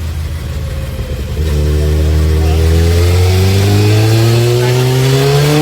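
Sport motorcycle engine on a chassis dynamometer: running low and rough, then about a second and a half in the throttle opens and the revs climb slowly and steadily under load, a dyno pull.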